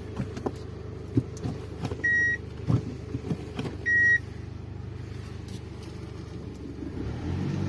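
Hyundai i20 diesel engine idling, heard from inside the cabin, with a few clicks as the manual gear lever is worked into reverse and two short electronic beeps about two seconds apart. Near the end the engine revs up as the car starts off hard in reverse.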